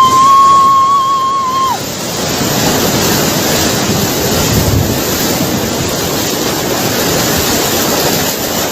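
Churning, rushing water of the Bono tidal bore wave surging up the river, a steady loud surf noise. Near the start, a high held call lasts about two seconds over it.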